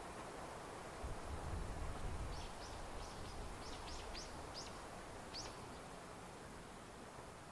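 A small bird calling in the open countryside: a quick string of about ten short, high chirps, each falling sharply in pitch, starting about two seconds in and ending about three seconds later, over a faint low rumble.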